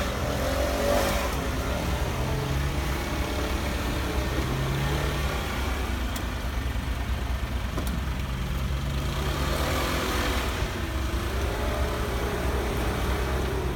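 Dump truck engine running steadily with a low rumble, with a faint wavering whine over it in the last few seconds.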